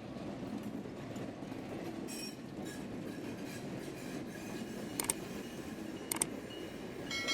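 Train rolling along the rails: a steady rumble of wheels on track, a faint high wheel squeal about two seconds in, and two sharp double clicks about five and six seconds in.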